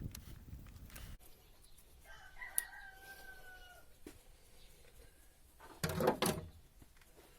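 A rooster crowing once, faint, one call of about two seconds. About six seconds in there is a short, louder noise, the loudest sound here.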